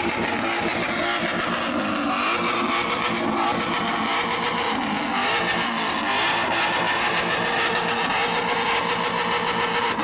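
Car engine with a hood-exit exhaust held at steady high revs, with rapid crackling pops throughout.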